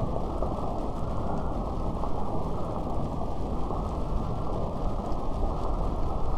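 Steady rain, a dense muffled hiss with no highs, with a few faint drop clicks scattered through it.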